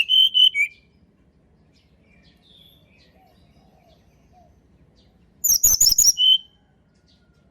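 Tledekan gunung (hill blue flycatcher) singing: a clear whistled phrase at the start, faint soft notes, then a loud quick run of high, sharp notes about five and a half seconds in, ending with one lower whistle.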